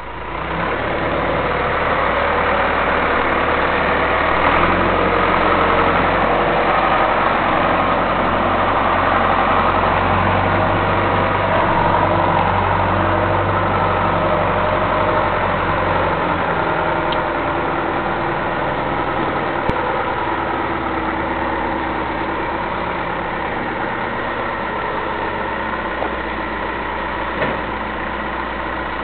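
John Deere backhoe's diesel engine idling steadily, its low hum shifting slightly a couple of times.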